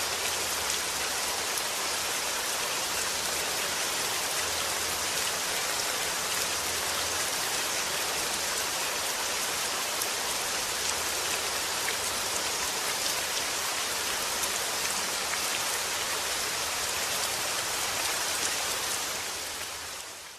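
Steady rain falling, an even hiss of many drops, fading out near the end.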